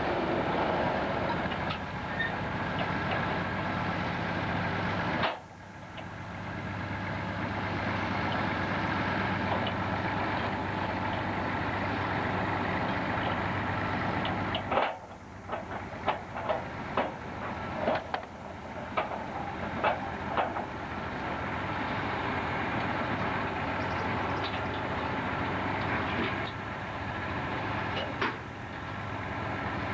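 Sawmill machinery running steadily, with a run of sharp knocks and clatter about halfway through.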